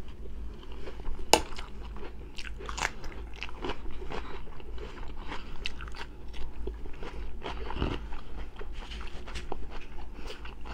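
Close-miked chewing and biting of a mouthful of rice and beef sausage: wet mouth sounds and many short sharp clicks, the loudest about a second and a half in.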